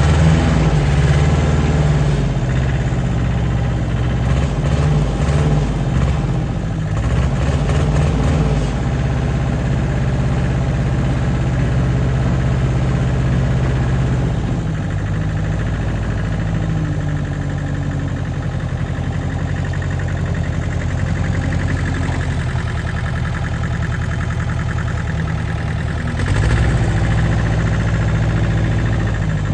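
Engine idling steadily, its note shifting a few times.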